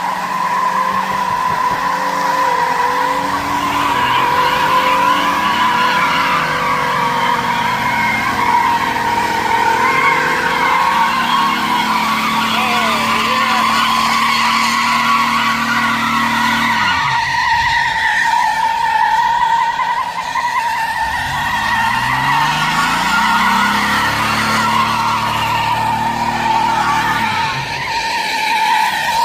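Pickup trucks pulling against each other on a tow strap, tires spinning on pavement with a steady squeal. Their engines rev up and fall back several times under load.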